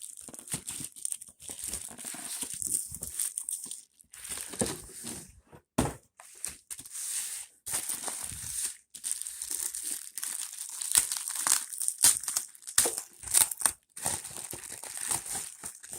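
Packaging crinkling and rustling as a box is unpacked by hand, in an irregular run of crackles and tearing sounds.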